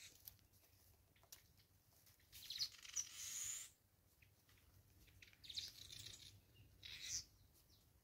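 Faint bird sounds at a garden feeder: a few short rustling or fluttering bursts with small chirps, the longest lasting a little over a second about two and a half seconds in, and two shorter ones near the end.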